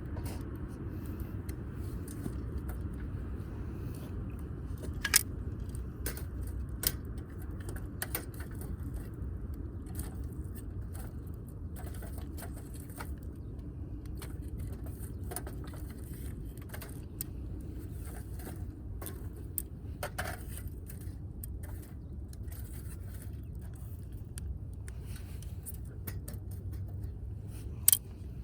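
Wood fire burning in a Uniflame firewood grill, damp firewood giving scattered sharp pops and clicks over a steady low rumble; the loudest pops come about five seconds in and near the end.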